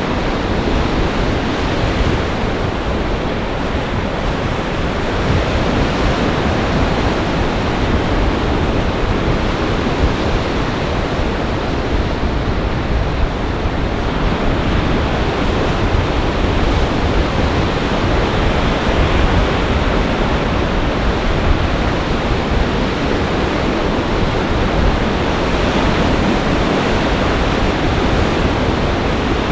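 Storm surf breaking under gale-force winds: a loud, steady rush of waves and wind with no letup.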